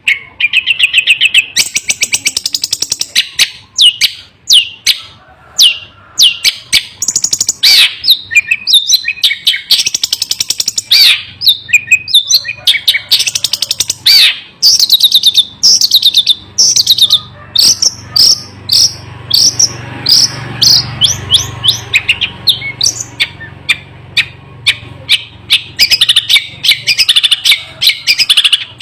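Long-tailed shrike (cendet) singing almost without a break: a fast, loud run of sharp chattering and whistled high notes, packed closely together.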